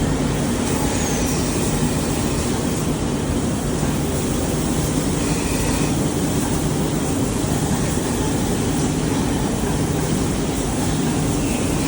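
Steady machinery noise with a constant low hum, running evenly without breaks.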